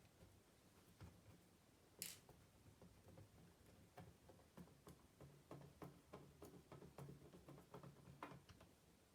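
Faint, irregular clicks and taps, with a short sharper noise about two seconds in and a faint low hum coming and going in the second half.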